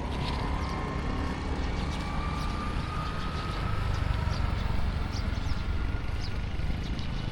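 Street traffic: a steady low rumble of passing motor vehicles, with a thin engine whine slowly rising in pitch and a few faint clicks.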